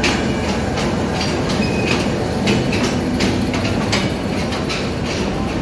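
Passenger train coaches rolling slowly past along a platform: a steady rumble with irregular clanks and clicks from the wheels and couplings, and a few brief high wheel squeals.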